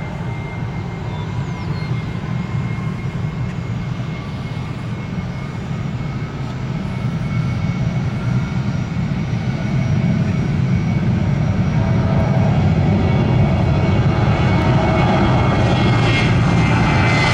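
Jet airliner's engines at takeoff thrust during the takeoff roll, with a low rumble and a steady high whine that grow louder about halfway through. The airliner is on a reduced-thrust takeoff with a long roll.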